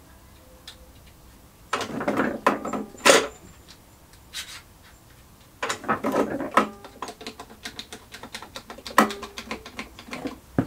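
Irregular clattering and knocking of tools and metal parts being handled, two busier clusters of knocks followed by scattered lighter clicks, as a clamp is fetched and set up.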